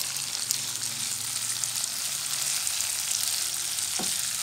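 Fried tofu cubes and spice paste sizzling in oil in a nonstick wok while being stirred with a plastic spatula: a steady frying hiss with faint crackles, and one knock about four seconds in.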